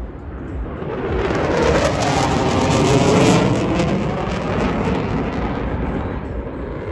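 An airplane flying past: engine noise builds about a second in, peaks near the middle and fades away.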